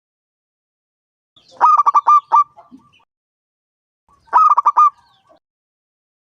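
Zebra dove (perkutut) cooing: two phrases of quick, clipped notes, the first about one and a half seconds in and the second about four seconds in, each lasting about a second.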